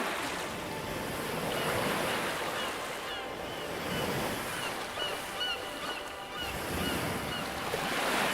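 Sea water washing and surging in slow swells, with short high chirps repeating about twice a second over it.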